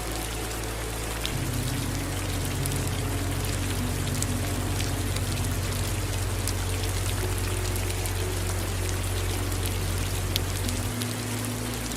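Steady rain with small drops pattering, mixed with running water, over a low rumble that swells about a second in and drops away near the end.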